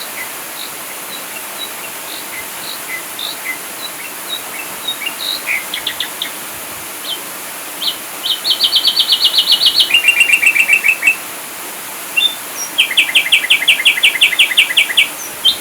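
Ashy drongo calling over a steady background hiss. For the first eight seconds it gives scattered short, high chirps. Then come fast rattling trills: a high one, then a lower one about ten seconds in, and another long rapid trill near the end.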